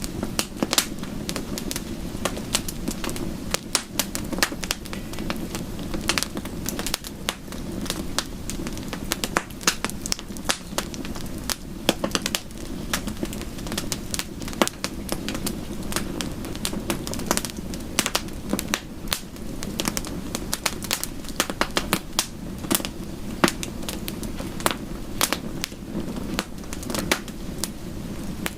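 Bonfire crackling: a steady low rush of burning wood with frequent sharp, irregular pops and snaps.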